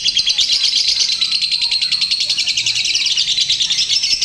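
Lovebird ngekek: a long, unbroken, high chattering trill made of a rapid run of repeated notes. The bird has just come out of its moult.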